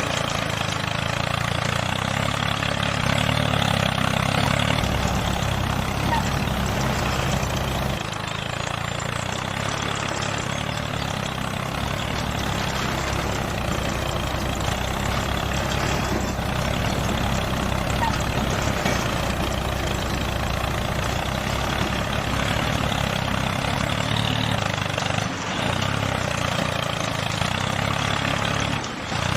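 Small motor of a homemade mini tractor running steadily, shifting slightly a few times and dipping briefly near the end.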